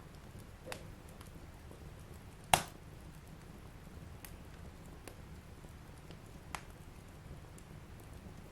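Wood fire burning in a fireplace: a low steady rumble of the flames with sparse crackles and one sharp, loud pop about two and a half seconds in.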